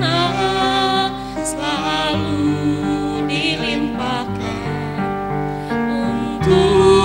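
Choral music: a choir singing long held notes, some wavering with vibrato, over steady instrumental accompaniment.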